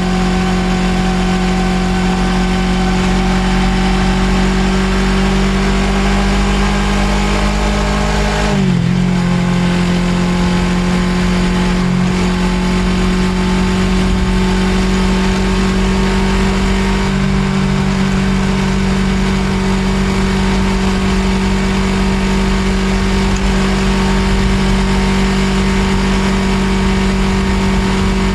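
Suzuki GSX250R's parallel-twin engine running at cruising speed on the move, with a steady rush of wind and road noise. The engine note rises slowly, dips sharply for a moment about nine seconds in, then holds steady.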